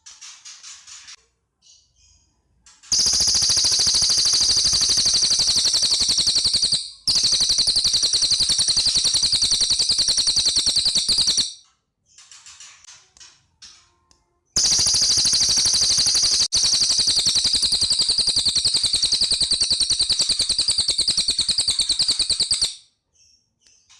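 Cililin birds singing: two long, loud, very fast trills, high-pitched, each lasting about eight seconds with one brief break, with softer short chirping phrases before, between and after them.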